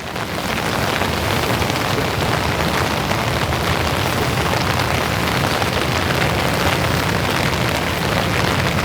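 Steady summer rain falling, getting louder about half a second in and then holding steady.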